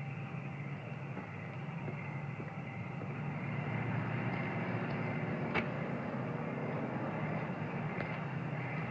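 A steady vehicle engine running, with a single sharp click about five and a half seconds in.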